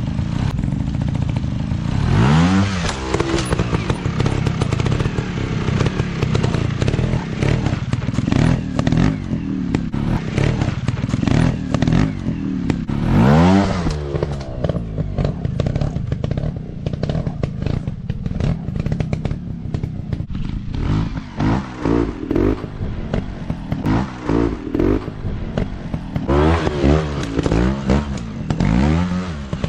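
Single-cylinder trail-bike engines revving hard and falling back again and again as the bikes are ridden off-road. There is a big rise in pitch about two seconds in, another about halfway, and a run of quick, choppy revs near the end.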